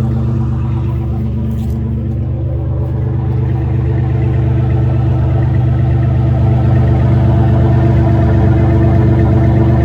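Chevrolet S-10's 4.3-litre V6 running at a steady low speed through a straight-piped 3-inch loop exhaust with no muffler, a deep even rumble that grows a little louder about halfway through.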